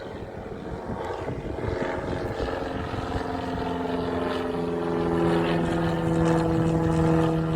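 Propeller aircraft's piston engine running and growing steadily louder, with a steady-pitched engine hum building up about three seconds in.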